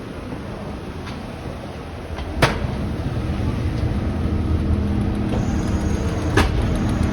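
City street traffic heard from a moving bicycle: a steady noise haze with a vehicle engine hum that grows louder from about three seconds in. Two sharp clicks come about four seconds apart.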